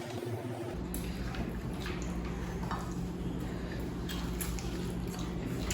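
People eating biryani, with scattered small clicks and wet squishing of food. A steady low hum starts about a second in.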